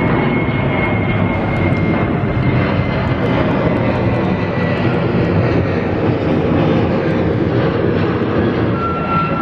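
Boeing 737 MAX taking off, its CFM LEAP-1B turbofan engines at take-off power: a loud, steady jet roar with a thin whine that slowly falls in pitch.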